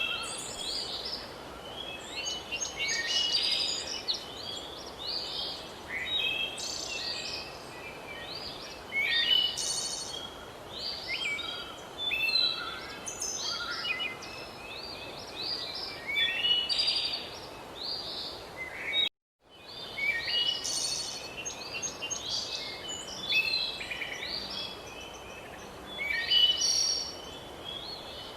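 Several birds singing at once: a dense chorus of short chirps and trills over a steady background hiss. About 19 seconds in, the sound cuts out completely for a moment and then resumes, like a splice in the recording.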